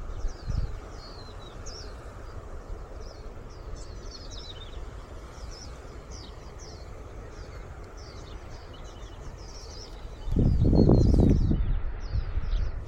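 Wild birds chirping and twittering continuously in many short, quick calls over a steady outdoor hiss. About ten seconds in, a loud low rumble lasts for about two seconds.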